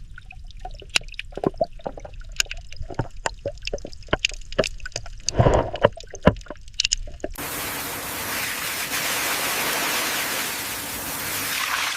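Water dripping and trickling with many irregular small clicks and knocks, and a louder thump about five and a half seconds in. About seven seconds in it cuts abruptly to a steady rushing hiss.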